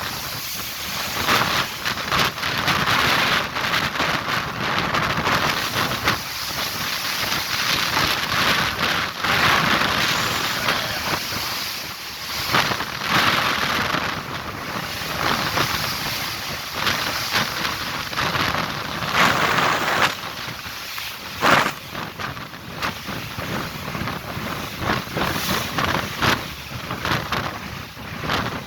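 Strong wind and rough sea heard from a boat, the noise swelling and easing in surges, with wind buffeting the microphone. One sharp louder hit comes about 21 seconds in.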